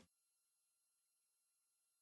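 Near silence: the background music has just ended and only a faint electronic hum remains.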